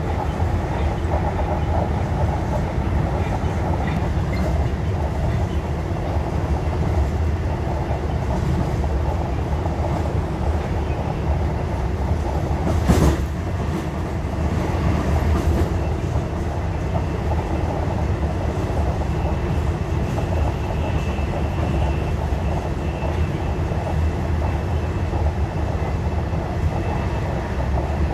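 Inside a regional passenger train running at speed: a steady rumble of wheels on rails and carriage noise, with one brief louder knock about halfway through.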